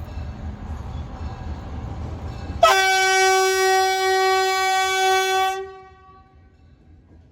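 Rumble of an approaching freight train, then a loud single-note locomotive horn sounds one long blast of about three seconds and cuts off sharply.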